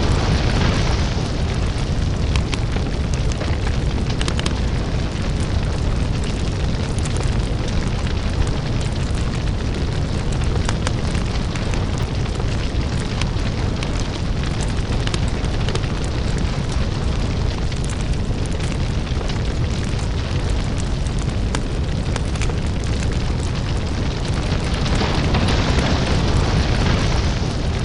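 Crackling lava fire ambience: a deep, steady rumble under dense crackling and popping. A rushing hiss swells up at the start and again near the end.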